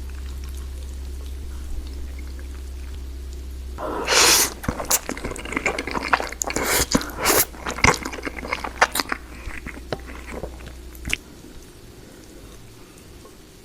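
Close-miked eating sounds: a bite about four seconds in, then wet chewing with sharp clicks and crackles that thin out by about eleven seconds. A low steady hum underneath cuts out near the end.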